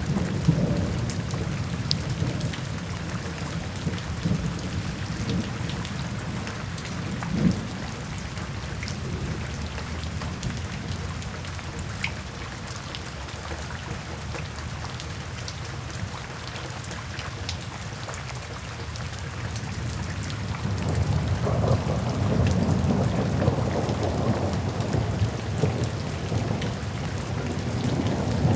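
Steady rain drumming on a tin roof, with scattered drop ticks over a deep low rumble. The rumble grows louder about two-thirds of the way in.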